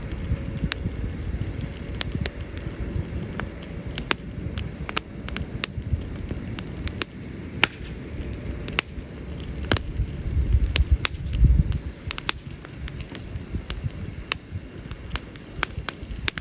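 Wood fire crackling, with frequent sharp pops of burning wood at an irregular pace over a low steady rumble that swells louder about eleven seconds in.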